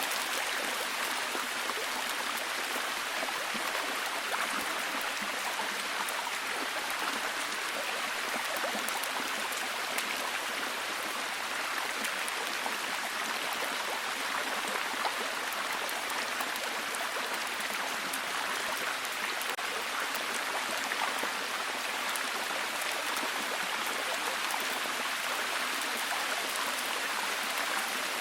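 Steady heavy rain, an even hiss of dense drops with no breaks or changes.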